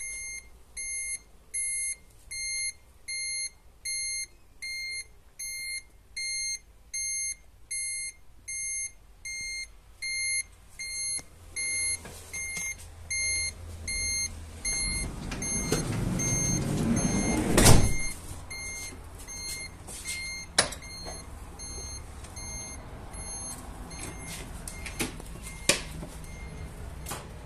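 A steady electronic beep repeating about one and a half times a second, then the Ford Transit's replacement gas-fuelled engine cranks, builds up and catches with a sharp loud bang a few seconds later, and settles into a steady idle with a few clicks.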